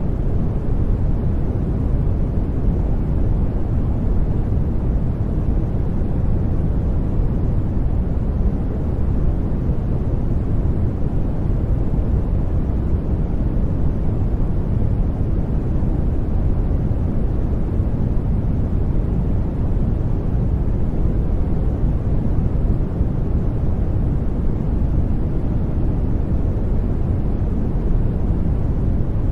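Brown noise: a steady, deep rushing hiss, its weight in the low rumble and fading toward the top, with no changes or events.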